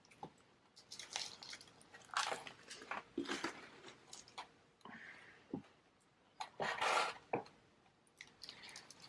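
Gritty potting mix of soil, perlite and pumice being handled during repotting: irregular crunching and rustling, loudest a little past halfway.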